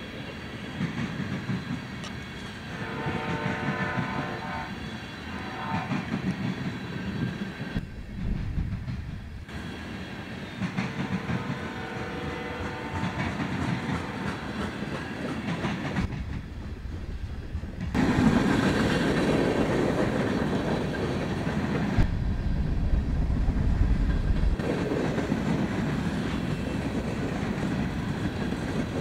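Freight train cars rolling past on the rails: tank cars and covered hoppers, wheels clacking over the rail joints. A held tone with several notes sounds twice in the first half, and the rolling gets louder about two-thirds of the way through.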